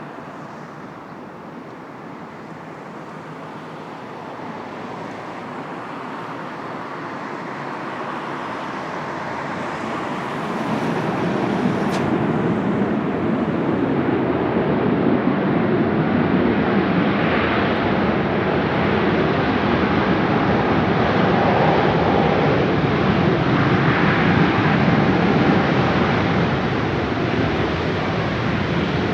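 Jet airliner engines running, rising over about ten seconds and then staying loud and steady as the aircraft passes close.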